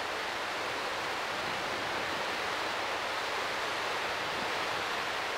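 Steady rushing of floodwater pouring through a dam's floodgates.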